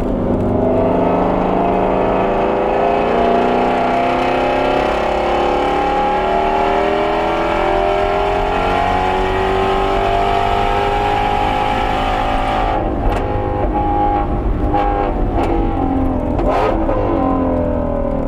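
Shelby GT350R's 5.2-litre flat-plane-crank V8 under hard track acceleration, its note climbing steadily for about twelve seconds. Then it comes off the throttle, the pitch falls, and a few sharp cracks and a quick rev blip come as it slows.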